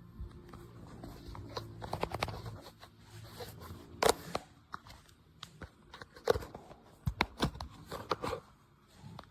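Scattered clicks and knocks of something being handled, over a faint low hum that stops about two and a half seconds in.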